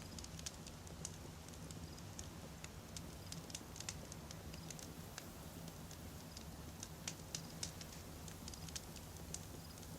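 Wood campfire burning, with a steady low rush of flames under frequent sharp, irregular crackles and pops of the burning logs.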